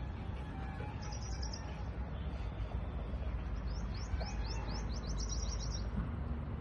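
Small birds chirping: a quick run of high notes about a second in, then a series of fast rising notes overlapping a rapid trill in the second half, over a steady low rumble.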